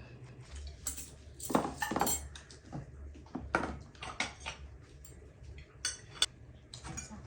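Cutlery clinking and scraping against plates as food is eaten: a dozen or so irregular sharp clinks, the loudest a little under two seconds in, over a faint low hum.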